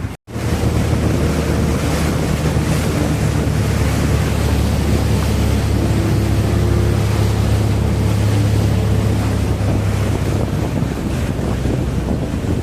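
Steady rush of wind on the microphone and water over the low, even drone of a boat's engine.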